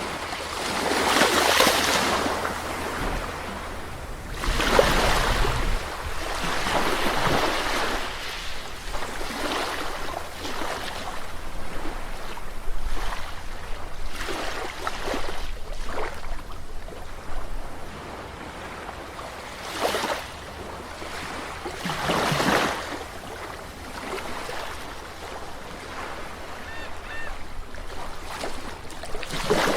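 Calm sea waves breaking on the shore one after another, each wash swelling and fading every few seconds.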